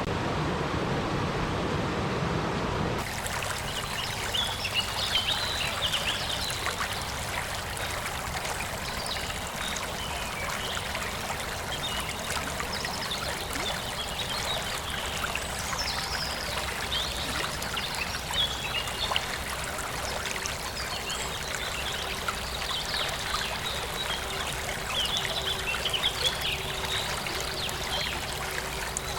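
A steady rushing noise cuts off about three seconds in. Water trickling and gurgling follows, like a small stream.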